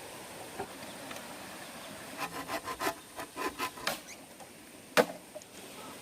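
Bamboo being sawn by hand: a short run of quick, rasping strokes, about six a second, then a single sharp knock about five seconds in, the loudest sound.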